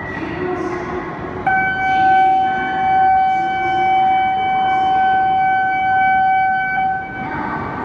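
An E5-series Shinkansen train runs slowly alongside the platform with a steady rail rumble. About a second and a half in, a single steady horn-like warning tone starts suddenly, holds for about five seconds, then cuts off.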